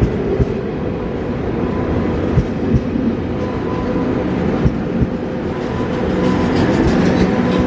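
KTX-I high-speed train pulling slowly out along the platform: a steady electric traction hum with a few sharp wheel clacks over rail joints, getting louder near the end as the power car comes past.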